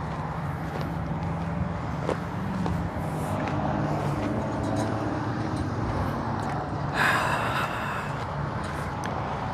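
A motor vehicle's engine running steadily, with a brief louder rushing noise about seven seconds in.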